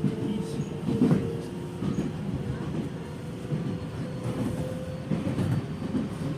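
Running sound of a Nankai 6250 series electric train with Hitachi IGBT-VVVF control. A steady motor and inverter tone sits over the rumble of the wheels, with a few knocks as the wheels pass rail joints.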